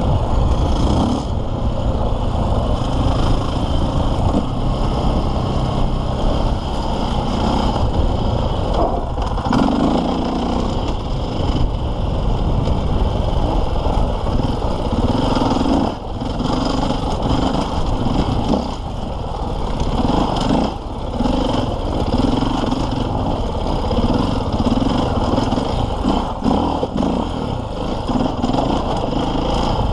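KTM 450 EXC's single-cylinder four-stroke engine running under changing throttle as the bike is ridden offroad, revs repeatedly rising and falling, with brief drops in level where the throttle is shut off.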